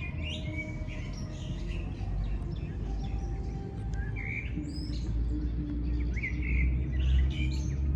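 Small birds chirping and tweeting in short, scattered calls over a steady low rumble that grows louder in the second half.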